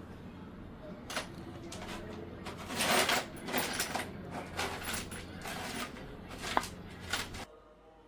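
Metal tools and engine parts clinking and knocking as they are handled during engine teardown, a string of sharp clanks over a steady low hum that cuts off suddenly near the end.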